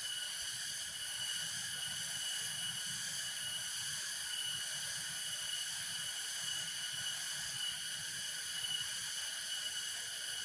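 A steady chorus of insects trilling without a break, with a thin high tone standing out above the rest.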